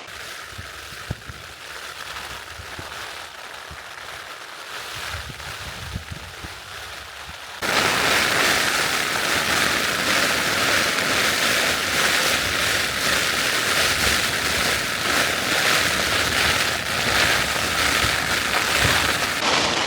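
Rain pelting on a tent's flysheet, heard from inside the tent. About eight seconds in it abruptly becomes much louder and stays at a heavy, torrential level.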